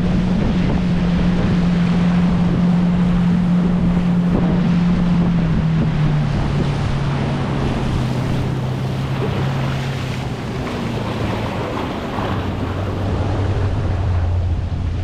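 Motorboat engine running over wind on the microphone and rushing water. From about five seconds in, its pitch drops in several steps as the boat slows.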